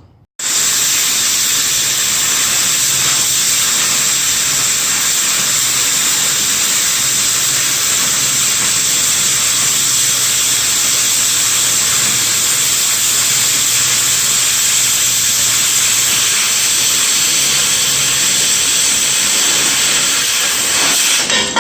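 Oxy-fuel cutting torch hissing steadily as it cuts steel, starting abruptly and running without a break until just before the end.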